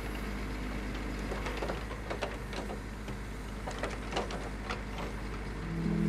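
Hydraulic timber crane on a log truck working its grapple boom: a steady low engine hum with scattered sharp clicks and knocks.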